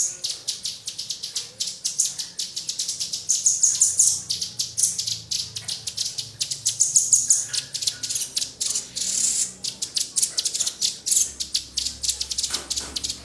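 Small songbirds calling in a rapid, unbroken stream of high, sharp chips and twitters, many notes a second, swelling louder every few seconds.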